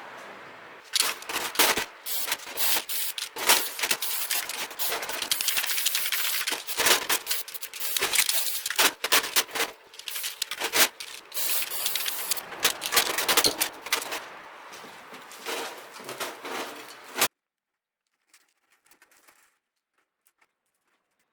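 Stick (arc) welding: the arc crackles and spits continuously with irregular sharp pops for about sixteen seconds, then stops abruptly.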